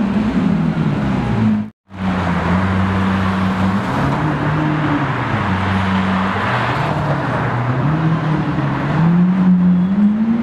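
Lamborghini Aventador's V12 exhaust as the car drives through the intersection, its note falling in pitch. After a brief cut about two seconds in, car engine notes from street traffic step up and down in pitch and rise near the end.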